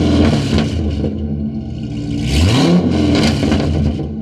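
Corvette V8 revved while stationary: a rev peaks right at the start and drops back to a rough idle, then a second rev rises about two and a half seconds in.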